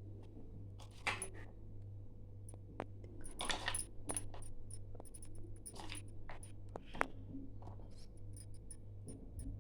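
Kitchen utensils clinking and scraping against dishes and cookware in irregular taps, with a few longer scrapes, over a steady low hum.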